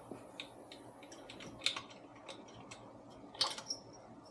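Scattered light metallic clicks and taps of hand tools and rocker-arm parts being worked on the top end of an 88ci Twin Cam engine, with a short cluster of clicks about three and a half seconds in.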